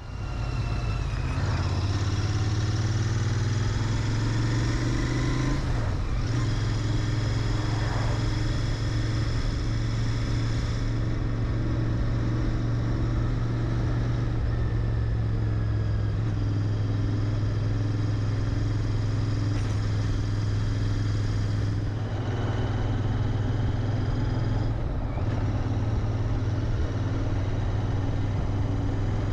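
Royal Enfield Interceptor 650's 648 cc parallel-twin engine through its stock exhaust, running steadily under way, with a few short breaks and shifts in the note.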